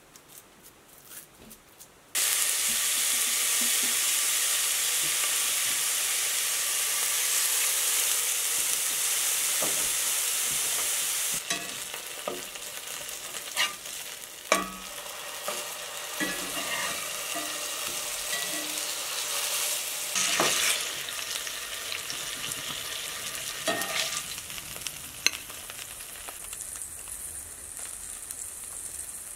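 Pork sausage patties sizzling in a cast-iron skillet. A loud, steady sizzle starts suddenly about two seconds in and drops to a quieter sizzle about eleven seconds in, with clicks and scrapes from a metal spatula turning the patties.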